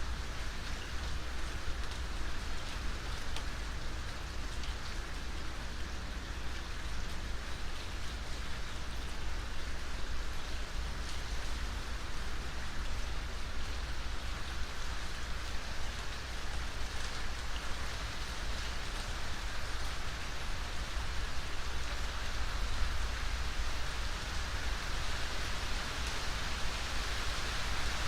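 Steady rain falling, an even continuous wash of drops with no breaks.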